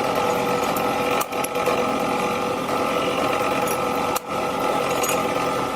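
Electric workshop machine tool running with a steady whine, breaking off briefly twice.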